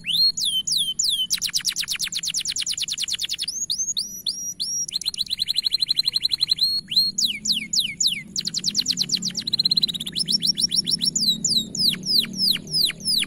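Domestic canary singing a long, unbroken song made of fast repeated phrases: runs of falling whistled notes, rapid trills, and a steady held note around the middle.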